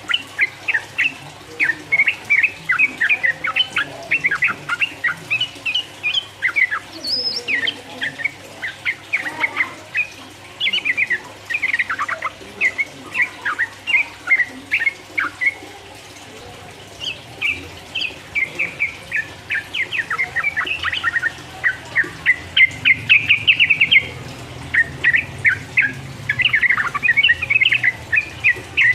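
Yellow-vented bulbul (trucukan) singing a long, rapid run of bubbly chirping notes, with a short pause about halfway through.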